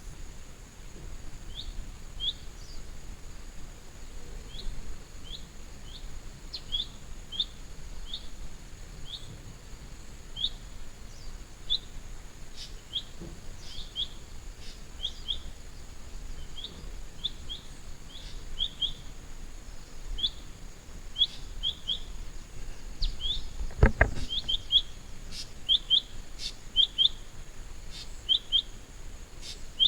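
A small bird repeating short, high chirps, one after another, coming faster and often in pairs toward the end. One dull thump sounds about three-quarters of the way through.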